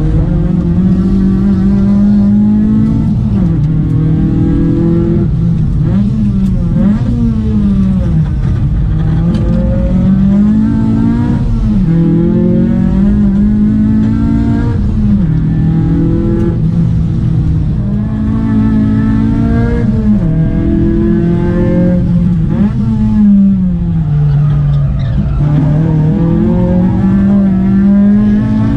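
Proton Wira 1.6's 4G92P SOHC four-cylinder engine running under hard driving, its pitch rising and falling again and again every couple of seconds as the throttle is worked.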